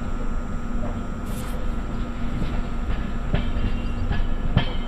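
Vidarbha Express passenger coaches running along the track, heard from an open coach door: a steady rumble of wheels on rail, with a few sharp clacks over rail joints in the second half.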